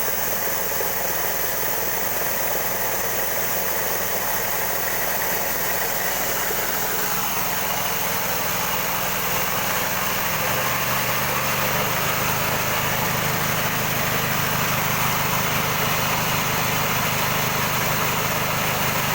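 Coffee-husk grinding machine running steadily, a continuous mechanical drone with hiss. About ten seconds in its pitch shifts and it gets a little louder.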